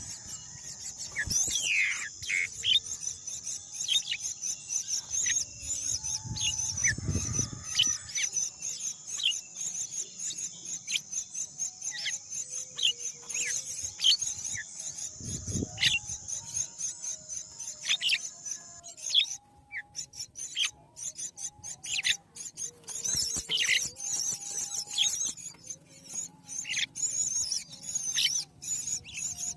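Birds chirping, with many short downward-sliding calls and scattered clicks, over a steady high hiss that stops about two-thirds of the way through.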